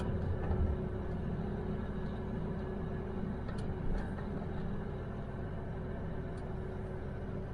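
Diesel pickup truck's engine running at low speed, a steady hum heard from inside the cab, with a few faint clicks.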